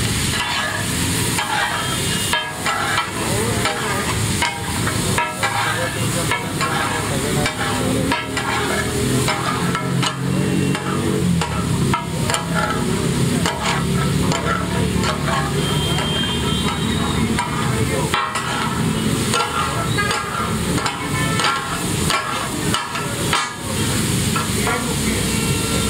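Food sizzling on a large iron tawa, with frequent sharp clatters of metal utensils stirring and scraping against the griddle.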